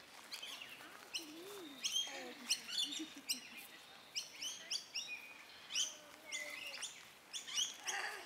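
Birds chirping: a quick run of short, sharp high calls from several birds, repeating throughout.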